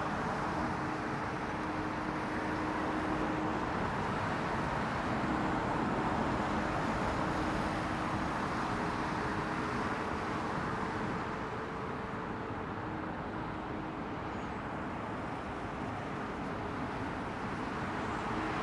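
Steady rumble and hiss of a British Airways Airbus A350-1000 airliner's engines on approach, heard from the ground, with a faint steady hum and a slight swell in the middle.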